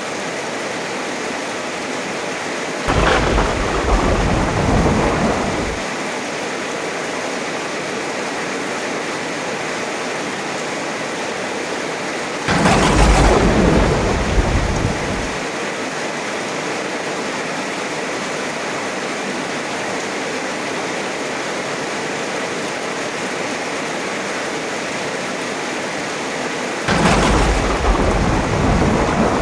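Heavy rain falling as a steady hiss, with three loud claps of thunder that each start suddenly and rumble deep for about three seconds: about three seconds in, about twelve seconds in, and near the end.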